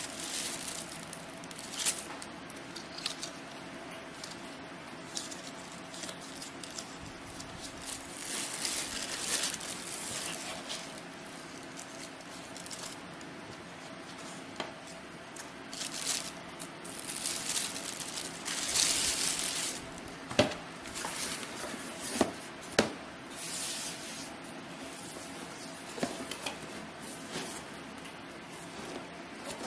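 Packaging being handled during an unboxing: irregular bursts of rustling and crinkling, with a few sharp knocks in the second half, over a faint steady hum.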